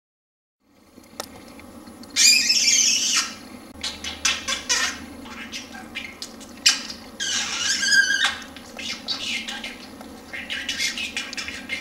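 Male budgerigar's courtship chatter: rapid, high-pitched warbling bursts mixed with clicks. The loudest come about two seconds in and again about seven seconds in, over a low steady hum.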